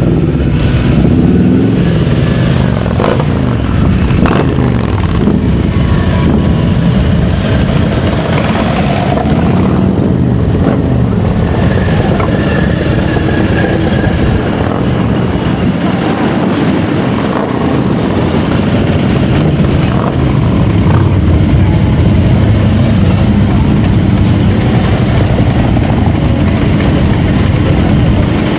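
Motorcycle and car engines driving past in a steady stream, their pitch rising and falling as they rev and pull away.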